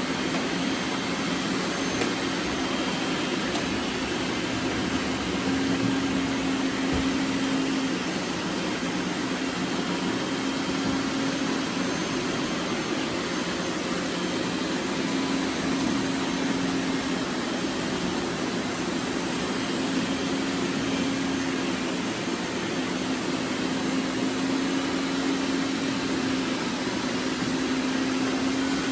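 Several robot vacuums running at once: a steady whirring hiss with a low motor hum that swells and fades every few seconds.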